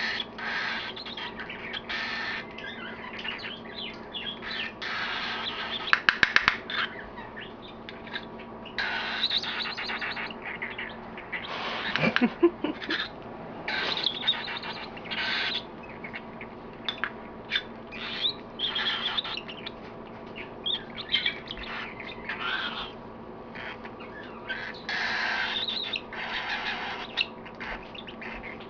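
Baby cockatiel's food-begging calls, repeated in short bursts as it is spoon-fed, with a quick run of loud pulses about six seconds in.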